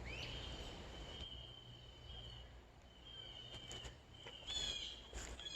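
Birds calling faintly in woodland: a thin, high, steady note held for about two seconds, picked up again, then a few short, quick calls near the end.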